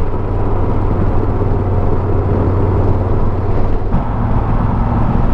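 Motorcycle engine running at a steady road speed under wind and road noise. The engine note shifts slightly after a brief dip about four seconds in.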